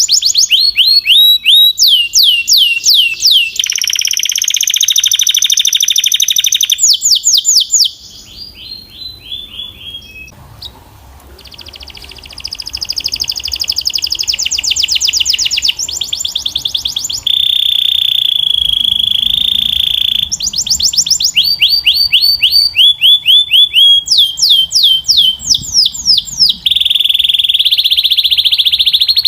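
A Belgian canary singing a long, loud song of fast trills and rolls, with runs of quick falling notes. About eight seconds in it drops to a softer, quieter passage for a few seconds, then picks up again.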